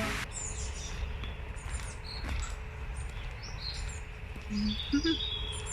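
Songbirds chirping and singing, with short high chirps and a few falling phrases, over a steady low rumble of outdoor background noise. Background music cuts off right at the start.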